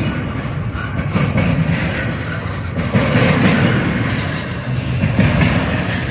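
Double-stack intermodal container well cars of a freight train rolling past: a steady rumble of steel wheels on rail with scattered clicks.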